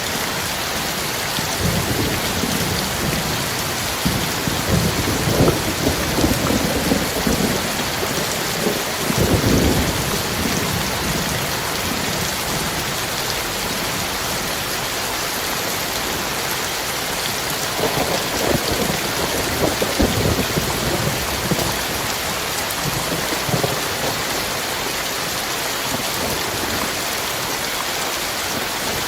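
Heavy rain falling steadily, with thunder rumbling in two rolls, the first from about two to ten seconds in and the second from about eighteen to twenty-four seconds in.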